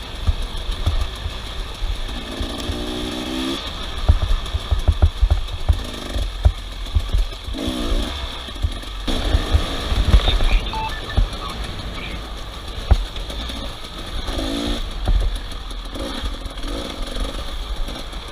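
Off-road motorcycle engines revving in several separate bursts, each rising and falling in pitch, over irregular low thumps.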